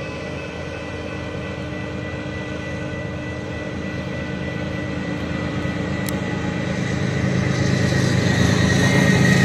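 Approaching BNSF diesel freight locomotive, its engine drone growing steadily louder as it nears, with the grade-crossing signals ringing.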